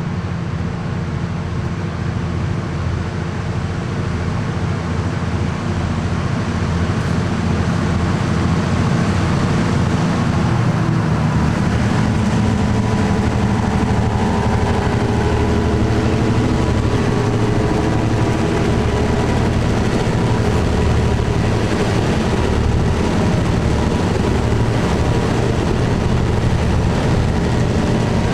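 Four diesel locomotives hauling an iron ore train, their engines working under load with a deep rumble. It grows louder over the first several seconds as they come closer, then holds steady.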